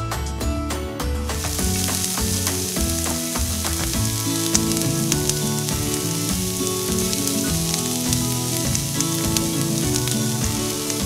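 Chicken pieces frying in oil in a miniature pan: a steady sizzle that starts about a second in, heard over background music.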